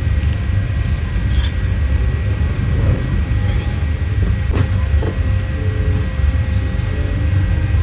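Steady low rumble of airliner cabin noise from engines and airflow, with a single click about halfway through.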